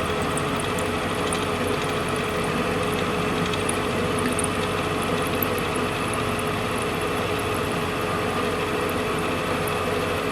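Steady machine running at a constant speed: an even hum with one held tone that does not change.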